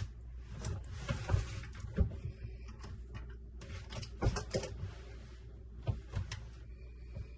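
Irregular knocks and clacks, mixed with short rustling and scraping, over a low steady hum.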